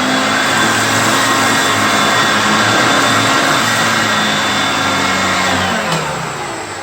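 Hoover Concept One vacuum cleaner running steadily with a high motor whine while sucking up crumbs. It is switched off near the end, and the motor winds down, falling in pitch.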